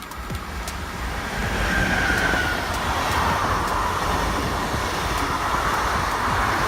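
Train passing at speed: wheel and rail noise that builds over the first two seconds, then holds as a steady loud rumble.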